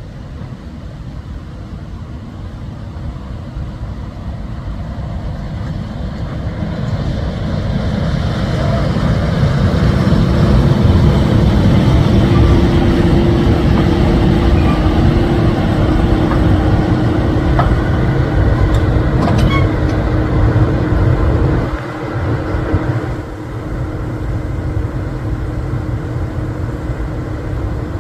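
Locomotive running close by: a low rumble with a steady hum that grows louder over the first ten seconds, holds, then drops off abruptly about twenty-two seconds in.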